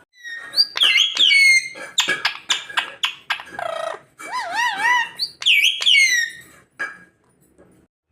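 Pet green parrot calling: several falling whistled squawks, a run of short sharp calls and a wavering warble, dying away near the end.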